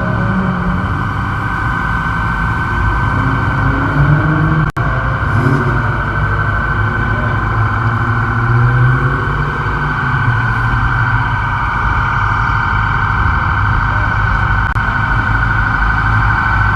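Car engines running steadily at a loud level, with a momentary cut in the sound about five seconds in.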